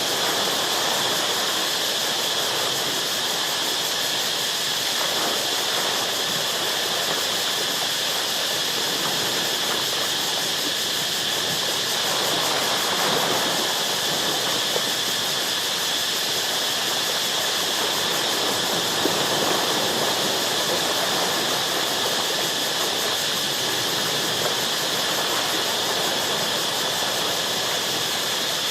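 Ocean waves washing against shore rocks, swelling every several seconds, under a steady high-pitched drone of insects.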